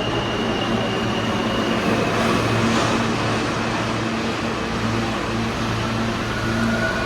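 New York City subway train running along the station track, a loud steady rumble with a low motor hum. A thin high tone fades out about two seconds in.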